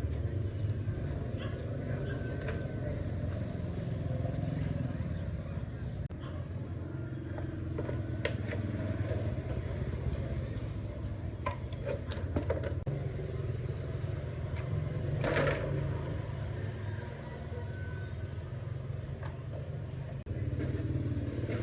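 A motor running steadily with a low, even hum and a few scattered light clicks.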